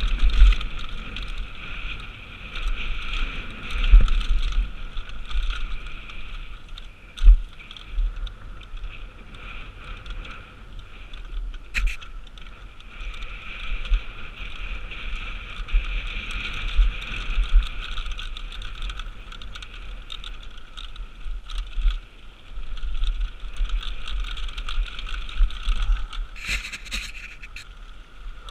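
Downhill mountain bike riding over rough trail: wind buffeting and heavy thumps on the camera microphone, scattered knocks and rattles from the bike, and a steady high buzz that drops out briefly twice.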